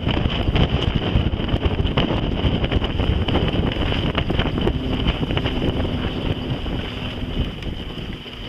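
Wind buffeting the microphone: a loud, low rumble with small clicks and rattles running through it, easing slightly near the end.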